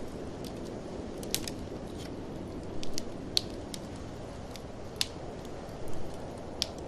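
Wood fire crackling in a fireplace, with irregular sharp pops and snaps, a few louder than the rest, over a steady low rush of blizzard wind.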